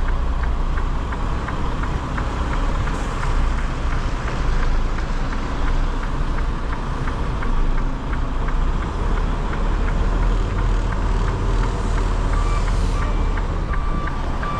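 Semi truck's diesel engine running with a steady low rumble, a fast even ticking of about two to three ticks a second over it. A high beeping tone joins near the end.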